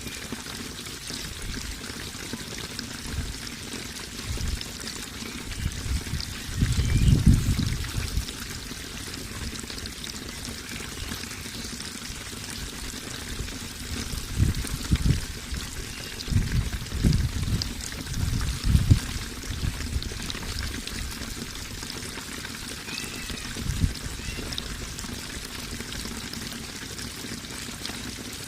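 Water running and trickling steadily, with louder low gurgles and splashes now and then: one about seven seconds in and several more in the middle.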